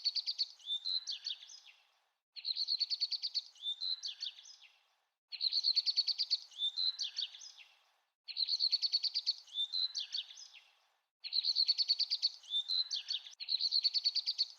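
Recorded bird song: one song phrase sung about six times, roughly every three seconds. Each phrase opens with a rapid high trill and ends in a few clearer sliding notes.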